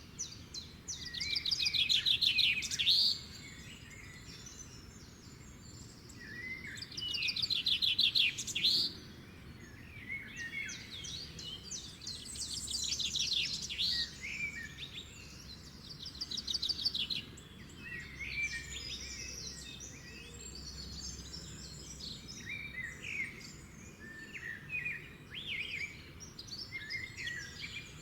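Songbirds singing: a loud, fast trilling phrase comes three times about five seconds apart in the first half, then softer short chirps and calls follow, over a faint steady background hiss.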